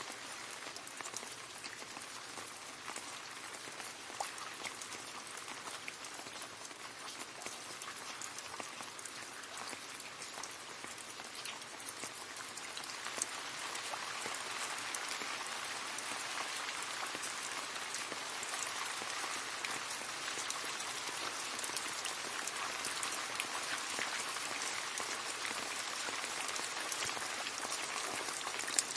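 Rain falling steadily into a puddle, a dense patter of drops splashing on water, growing a little heavier about halfway through.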